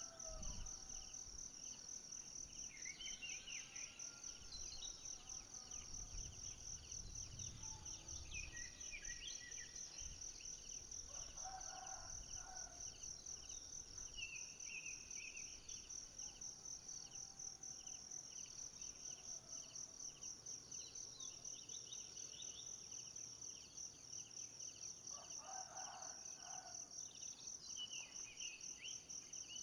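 Forest ambience: a steady, rapidly pulsing high-pitched insect chorus with a second, lower pulsing insect under it, and scattered short bird chirps. Two brief lower calls stand out, about 11 and 25 seconds in.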